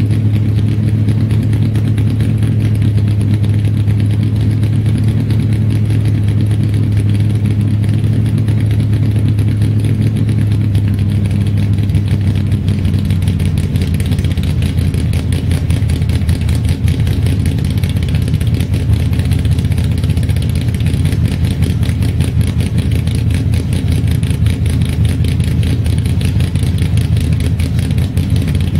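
A/FX drag car's engine idling loud and steady during a cold-start warm-up. About 13 seconds in, the idle note shifts and turns rougher.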